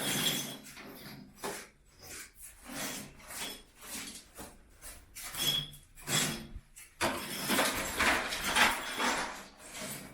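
Old floor being torn up by hand during demolition: irregular scraping, knocking and clatter of the floor covering being pried loose, with a longer, denser stretch of scraping about seven seconds in.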